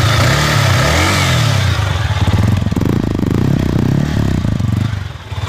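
Yamaha R15 V3's 155 cc liquid-cooled single-cylinder four-stroke engine running at a standstill and being revved repeatedly, its pitch rising and falling. The revving dips briefly near the end.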